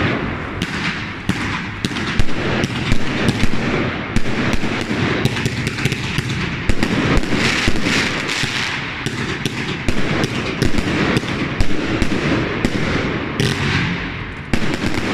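Heron Fireworks 'Bad Wolff' compound firework battery firing a continuous barrage, with several shots a second over a steady hiss.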